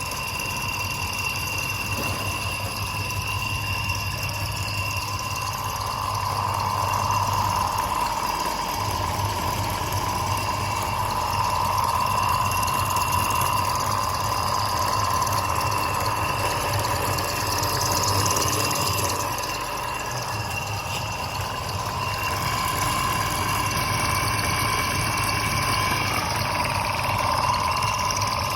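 Salvaged refrigerator compressor, rigged as an air pump for tyres, running with a steady electric hum and a higher whine, with two brief dips in the low hum.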